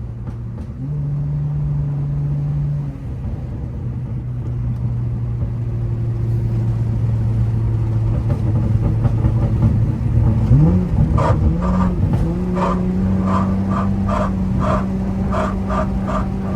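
Honda Accord V6 engine and road noise heard from inside the cabin while driving. The engine revs up about ten seconds in, and in the second half a string of short higher-pitched sounds repeats about twice a second.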